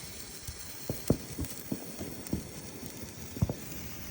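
Hand-held firework burning down to its end: a steady hiss with about ten irregular soft pops and crackles.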